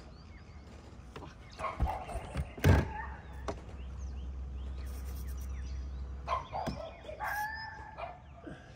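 Birds calling and chirping, with one loud knock nearly three seconds in and a low steady hum for a few seconds in the middle.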